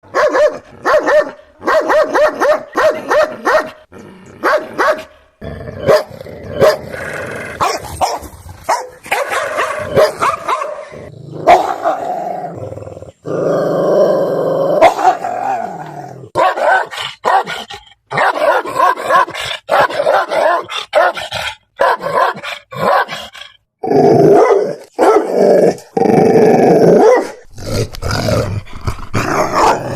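Angry dogs barking loudly, in rapid runs of short barks broken by brief pauses, with a few longer unbroken stretches of barking.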